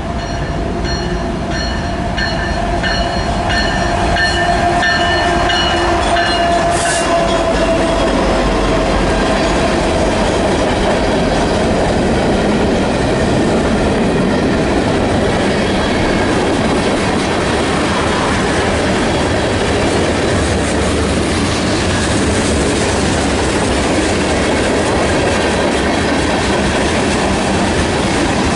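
Freight train passing close by: BNSF GE diesel locomotives (the lead an ES44C4) go past, with a steady high whine over the engine noise for the first several seconds. Then the freight cars roll by with steady rumbling and clattering of wheels on the rail joints.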